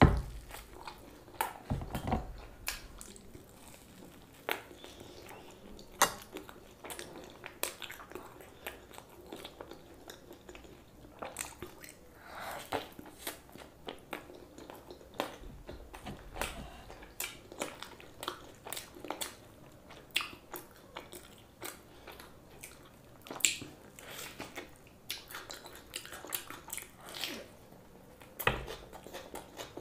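Close-miked eating sounds: bites into a burger, then wet chewing with irregular smacks and clicks, with a few heavier low thumps at the start and near the end.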